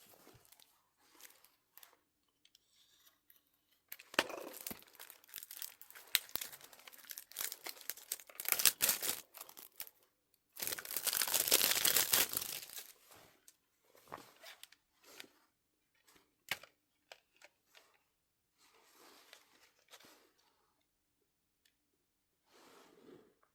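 Album packaging being torn open and crinkled by hand: irregular rustling and crackling with sharp clicks. The longest and loudest tear comes about halfway through, and softer rustles follow.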